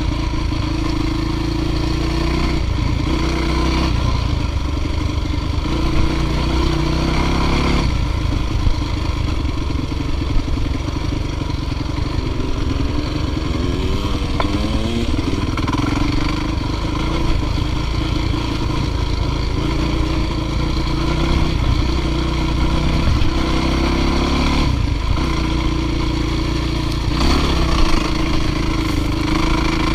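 Dirt bike engine running continuously under load on a climb, its pitch stepping and sweeping up and down several times as the throttle changes.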